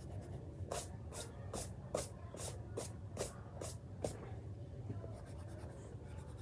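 Eraser rubbing back and forth over paper, erasing pencil lines in about nine quick, even strokes that stop about four seconds in.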